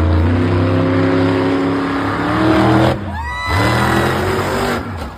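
Bigfoot monster truck engine running hard at high revs, its pitch creeping up, then dropping away suddenly about three seconds in and revving back up in a quick rising sweep under a loud rushing noise.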